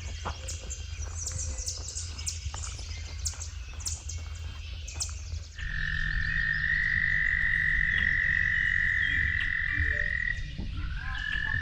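Scattered bird chirps, then a frog's long, steady, high trill held for about four and a half seconds. The trill starts again just before the end.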